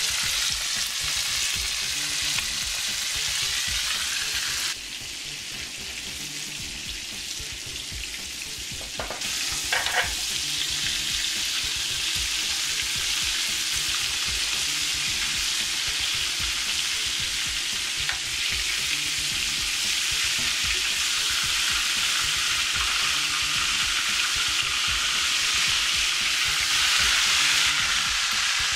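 Flour-coated chicken wings deep-frying in hot oil in a cast-iron skillet: a steady bubbling sizzle that drops abruptly quieter for a few seconds and then comes back. A couple of brief sharp knocks come about nine to ten seconds in.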